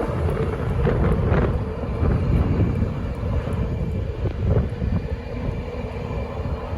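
A train passing through the station at speed without stopping, a loud steady low rumble of wheels on the track.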